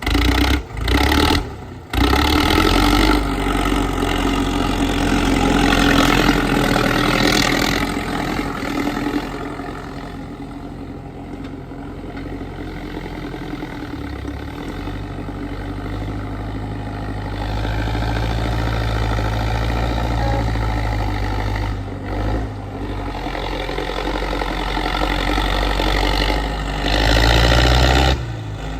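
Tractor engine running, its note and loudness shifting as it works, with a few abrupt brief breaks in the sound.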